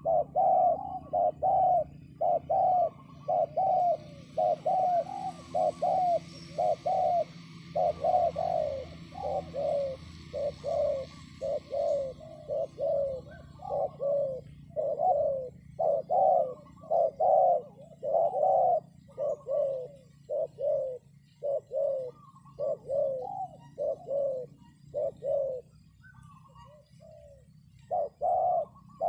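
Spotted dove (terkukur) lure call: short cooing notes repeated about one and a half times a second, pausing for about two seconds near the end before starting again.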